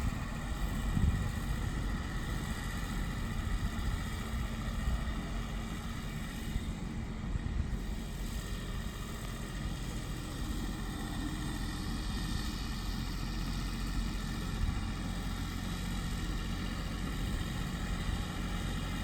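Farm tractor engine running steadily, a constant low drone.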